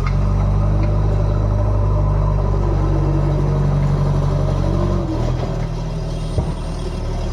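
Heavy diesel engine running under load, then easing off about five seconds in, with a single sharp knock shortly after.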